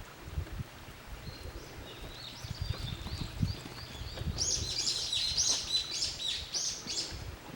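A small bird singing: a run of quick high notes starting about a second in, then a louder string of arching, repeated notes that stops near the end.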